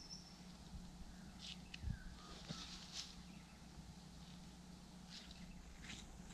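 Quiet outdoor ambience with scattered short, high bird chirps, one of them a falling note, and a soft low thump about two seconds in.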